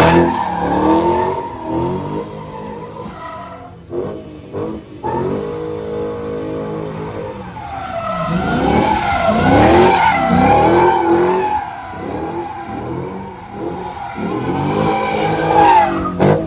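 Car engines revving up and down over and over, with tyres squealing and skidding as the wheels spin. The revving is loudest about ten seconds in.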